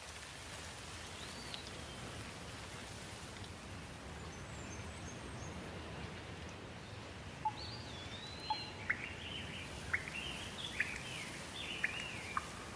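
Steady rain falling, with birds calling over it. From about halfway in, a string of short, sharp chirps and sweeping whistles.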